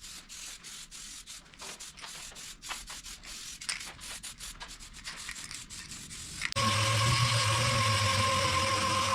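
Sandpaper rubbing over resin primer on a car body panel in uneven back-and-forth strokes. About two-thirds of the way in this cuts off and a louder steady machine hum starts abruptly.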